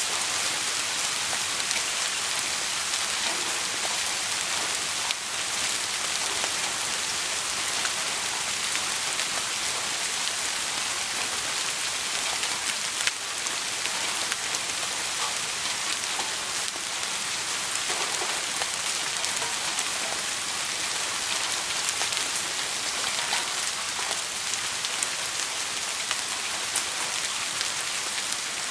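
Steady rain falling, an even hiss with scattered sharp ticks and pops through it.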